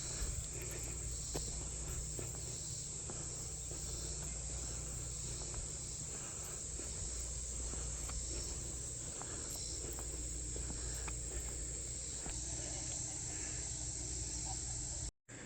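Steady chorus of insects trilling: a continuous high-pitched drone with no let-up, over a low rumble.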